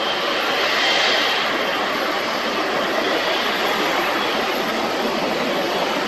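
Jet engines of a Boeing 777 freighter, GE90 turbofans, running with a steady rush and a faint high whine that swells briefly about a second in.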